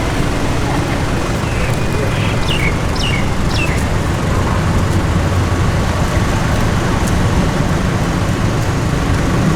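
Road traffic noise: a steady low rumble of motor vehicles, with a few short high chirps about two to four seconds in.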